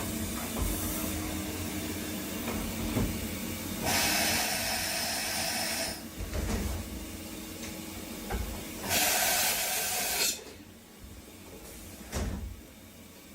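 Mazak Integrex 35 CNC turn-mill running with a steady hum and a few knocks. Two bursts of loud hissing come about four and nine seconds in, each lasting one to two seconds.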